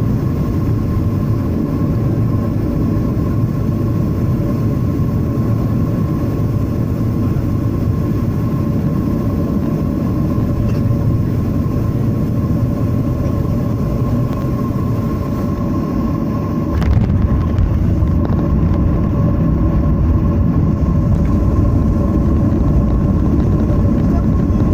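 Boeing 737-800 cabin noise on the landing approach: a steady rumble of engines and airflow with two steady humming tones. About two-thirds of the way through there is a short knock, and after it the low rumble is a little louder.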